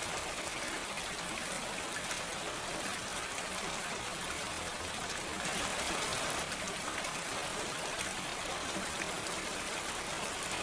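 Steady rain falling, an even hiss with scattered small drop ticks, briefly a little heavier about halfway through.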